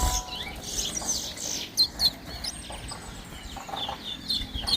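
Towa-towa (chestnut-bellied seed finch) singing: scattered quick, high chirping notes, the sharpest about two seconds in.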